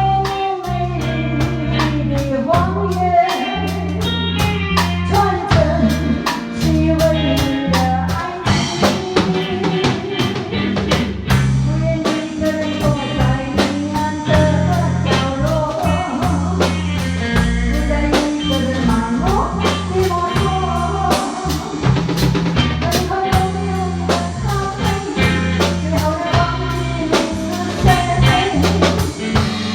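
A band playing a slow pop ballad in E-flat: a drum kit keeps a steady beat over a bass guitar line, with a bending melody line above.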